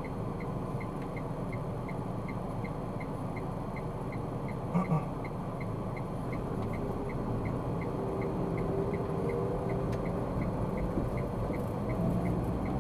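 Car cabin noise while driving: steady engine and road noise, with a faint regular ticking about two and a half times a second. There is a brief louder sound about five seconds in.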